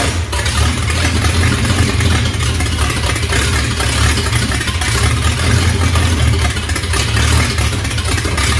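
Ford flathead V8 engine running steadily with a deep, even note.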